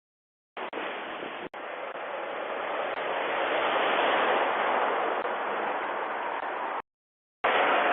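A heavy truck driving past on the road: a steady rush of engine and tyre noise that grows to its loudest about four seconds in and then eases. It cuts off abruptly, and after a moment of silence another passing-vehicle rush starts.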